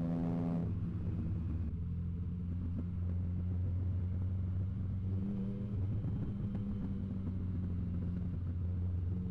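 Yamaha MT-09 SP's three-cylinder engine with a Blackwidow aftermarket exhaust, running at a steady low rumble while riding; its pitch steps up about five seconds in.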